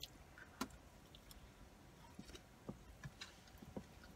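Near silence with a few faint, soft mouth clicks from chewing a cheesy curly fry with the mouth closed.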